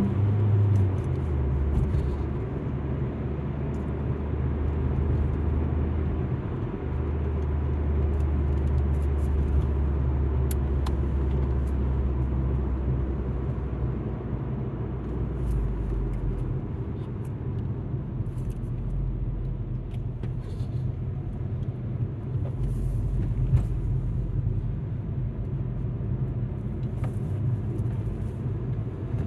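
Steady low rumble of an Alfa Romeo MiTo driving, engine and tyre noise heard inside the cabin, its deepest note shifting a few times as speed or gear changes.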